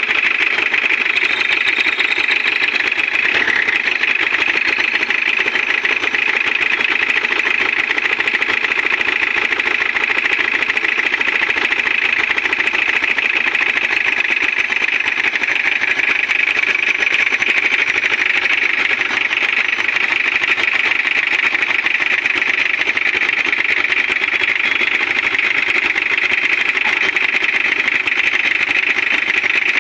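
Toyota 2C four-cylinder diesel engine running steadily at idle with its diesel clatter, just started after a timing belt replacement.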